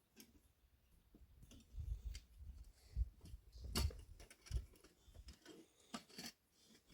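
Faint, scattered clicks and knocks of things being handled, with a few low, dull thumps. The loudest is a sharp knock about four seconds in.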